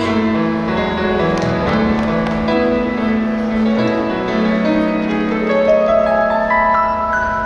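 Instrumental introduction of a pop song's backing track: keyboard-led music with held chords and a melody that climbs higher in its second half, with no singing yet.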